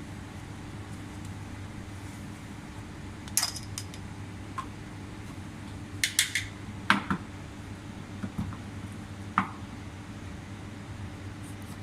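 Scattered sharp clinks and knocks of cups and metal espresso gear being handled, most of them in the middle stretch, over a steady low hum.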